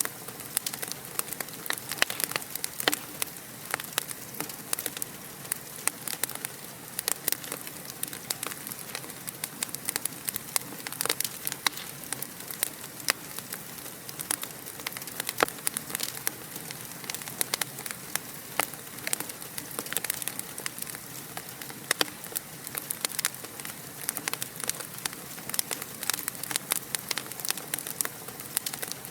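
Wood fire in a fireplace crackling: a steady hiss with dense, irregular pops and snaps.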